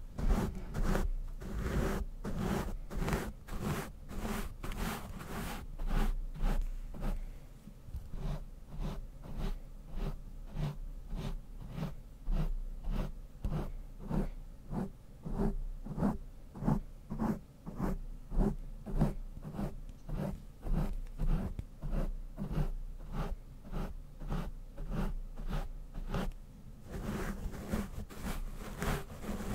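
A brush stroked rhythmically across a microphone's grille, about two scratchy brushing strokes a second at a steady pace.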